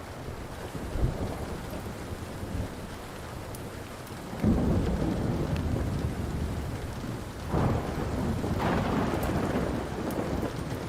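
Thunder rolling over steady rain: a low rumble builds about a second in, then a sudden loud peal about halfway, with two more surges soon after that rumble on to the end. Faint crackles of a wood fire sound now and then beneath.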